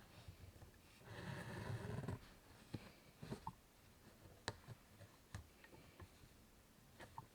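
Faint sounds of hand embroidery: a thread drawn through fabric with a soft rustle about a second in, then a few scattered small clicks of the needle and hoop.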